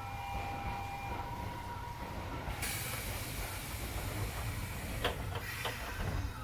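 Keisei 3400 series train standing at a station, its low rumble steady. About two and a half seconds in, compressed air starts to hiss suddenly, and a couple of knocks come near the end, as from the air-operated doors working.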